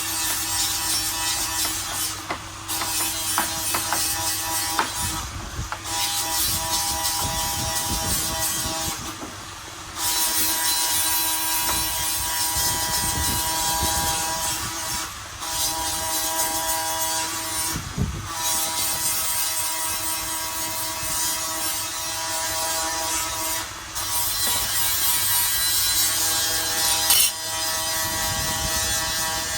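An electric power tool working wood, running in long stretches with a whining motor pitch and stopping briefly several times.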